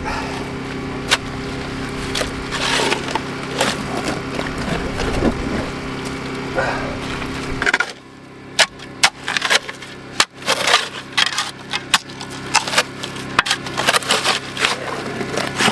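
A small engine runs steadily and cuts off abruptly about halfway through. Then come sharp scrapes and knocks of a shovel digging into rocky clay and striking stones.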